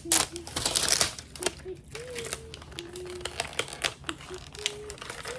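Small plastic toy parts and packaging being handled: a run of sharp clicks and taps, with a stretch of plastic rustling in the first second.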